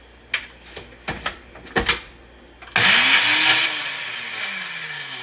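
A few clicks and knocks of handling, then a blender motor pulses on for about a second and spins down with a slowly falling whine, working a thick cottage-cheese sauce.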